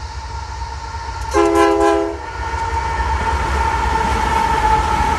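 Locomotive horn sounding one short loud blast about a second in, lasting under a second, over the low rumble of a train, with a steady high tone running throughout.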